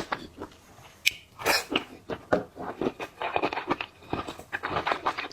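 Close-up eating sounds: a person chewing and biting into seafood, in a run of irregular, quick wet mouth noises.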